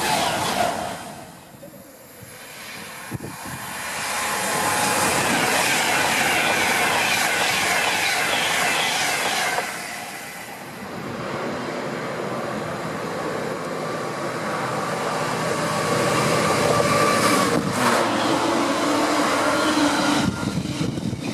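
Trains passing at speed in turn on an electrified main line. Electric passenger trains rush past, and near the end a container freight train's wagons roll by close with steady wheel-on-rail noise.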